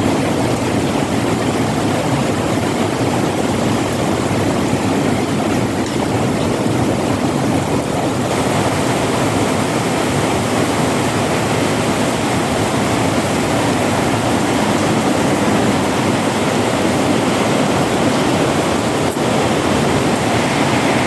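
Heavy rain pouring down steadily, a continuous loud rush of water with no pause.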